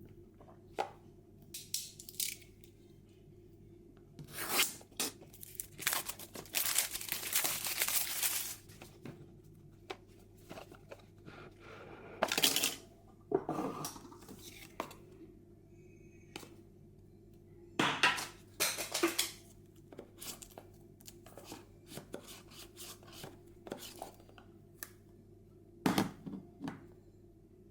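A speed cube's retail packaging being torn and unwrapped by hand. There is one long tear several seconds in, then shorter rips and rustles, with small clicks and knocks of the box being handled between them.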